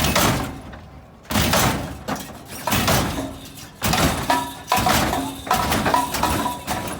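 Lowrider car hopping on its hydraulics, slamming down with a loud metallic clank about once a second, six or seven times in a row.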